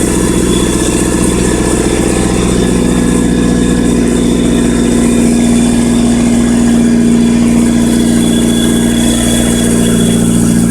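Turbocharged Honda B16A 1.6-litre DOHC VTEC four-cylinder idling on its first start-up, the idle drifting up a little in the middle and easing back down near the end.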